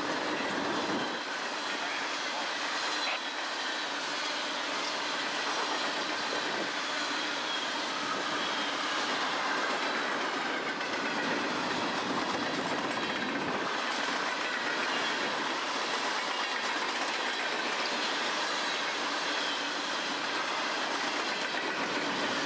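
Freight train of CSX coal cars rolling past close by: a steady rattle and clatter of wheels on the rails, with faint wavering high squeals from the wheels.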